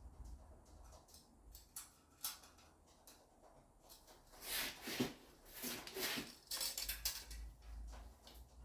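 Light knocks and scraping of steel parts being handled and shifted while a Jeep frame cross member is fitted, busiest in the second half.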